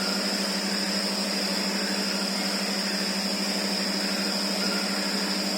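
Truck-wheel cornering fatigue test rig running steadily: a constant low hum with a high, even whine above it, unchanging in pitch and level.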